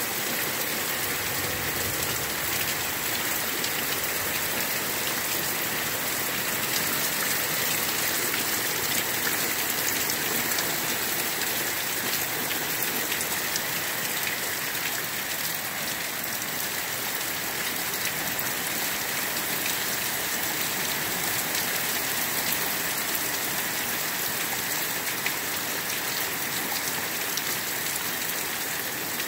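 Heavy rain falling hard and steady, a dense wash of noise full of countless fine drop impacts.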